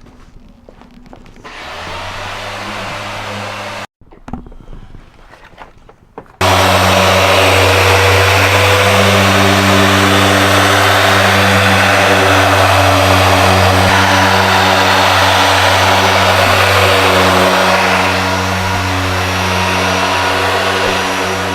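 Audi A3 car running with a steady low engine drone under a loud rushing noise, starting abruptly about six seconds in after a few seconds of quieter, cut-up sound.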